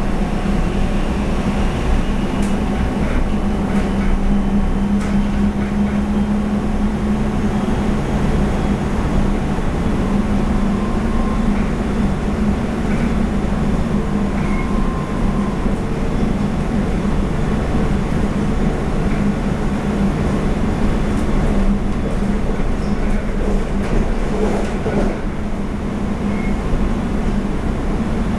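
Cabin noise of a Taiwan Railway EMU700 electric multiple unit running at speed: a steady rumble with a low hum and a few faint clicks.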